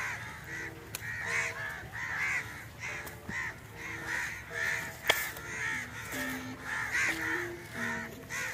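Birds calling over and over in a rapid, even series, two or three calls a second, over faint stepped tones of a melody.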